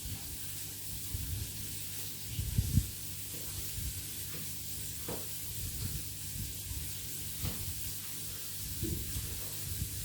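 Meat patties frying in a pan, a steady sizzling hiss, with a few low knocks from handling; the loudest knock comes about two and a half seconds in.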